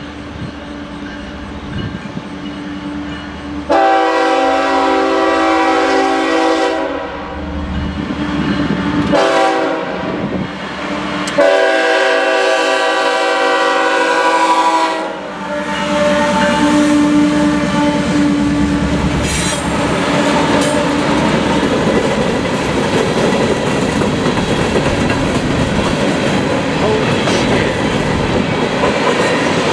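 Freight locomotive air horn sounding a series of blasts, two long ones with shorter ones between, the last held about three seconds. Then the train rolls past with a steady rumble and clatter of wheels on the rails.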